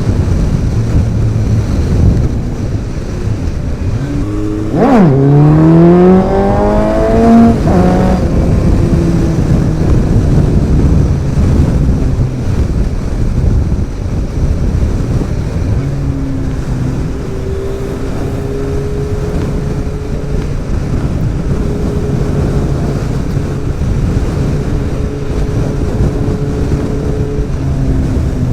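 Suzuki Bandit 1250's four-cylinder engine, breathing through aftermarket extractors and exhaust, on the move. It revs up hard about five seconds in, climbs again briefly near eight seconds, then settles to a steady cruising note, with wind and road noise underneath.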